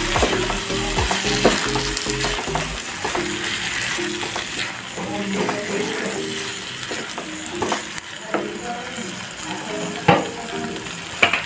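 Marinated soya chunks sizzling in a pan of tomato and spice masala as they are stirred in, with a couple of sharper knocks near the end.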